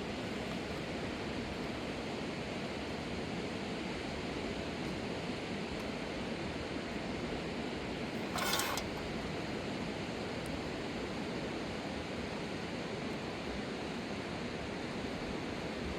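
Steady rushing of a fast-flowing river, with a short sharp noise about halfway through.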